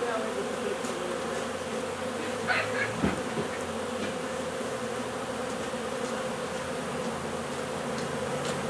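Honey bee swarm buzzing, a steady hum of many bees, with a brief knock about three seconds in.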